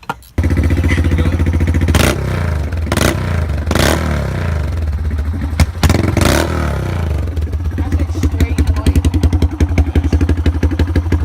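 Dirt bike engine running loud, starting abruptly about half a second in, with a few short sharp spikes in the first six seconds, then settling into an even, choppy pulsing idle near the end.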